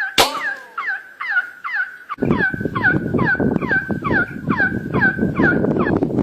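A bird calling over and over in a fast, even series, about three short notes a second, each sliding quickly downward in pitch. A sharp click sounds just after the start, and from about two seconds in a rough crackling noise runs underneath the calls.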